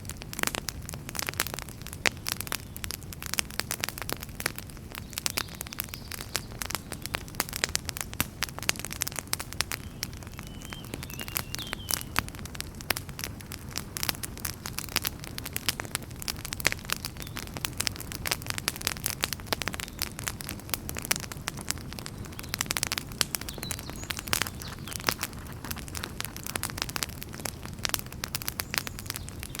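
Wood fire in a fireplace crackling and popping: dense, irregular snaps over a low, steady rumble of flame, with a faint brief whistle about ten seconds in.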